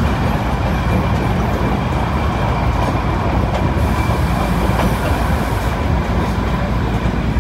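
Darjeeling Himalayan Railway toy train running, a steady rumble with wheel clatter on the rails and a hiss for about two seconds midway.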